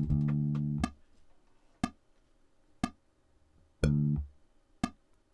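Bass guitar playing a held low note on the first click and a shorter note about four seconds in, over a steady click about once a second.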